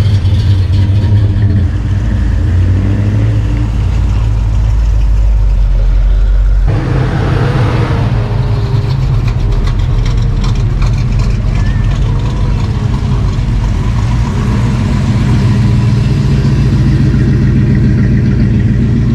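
Car engines running loud and steady. The sound changes abruptly about seven seconds in to a different engine note.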